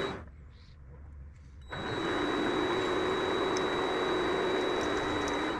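Vevor MX400 mini lathe running with a steady motor whine while a scissor-type knurler rolls a pattern into a brass workpiece. The sound drops away almost at once, comes back sharply about a second and a half in, and fades out near the end.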